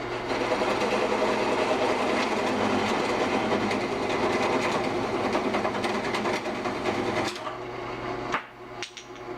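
A parting tool cutting into a candlestick turning slowly on a wood lathe to part it off: a dense, rough scraping chatter over the lathe's steady hum. The cutting stops about seven seconds in, and a sharp click follows a second later.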